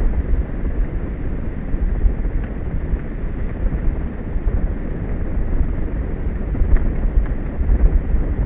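Wind buffeting an outdoor microphone: a steady, gusting low rumble with no tone or rhythm.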